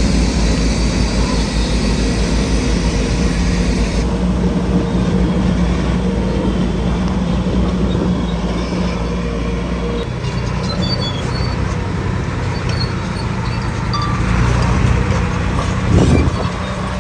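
Heavy diesel engine of earth-moving machinery running steadily, with a single thump near the end.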